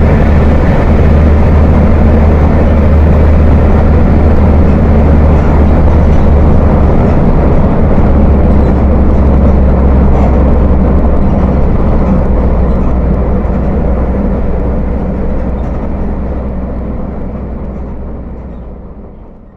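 Volkswagen 17.230 OD bus diesel engine running steadily with a deep, thick rumble. It fades away over the last few seconds.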